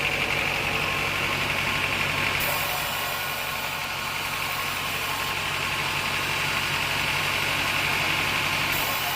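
Sawmill machinery running steadily with a low hum and a higher whine, its tone shifting slightly a couple of seconds in.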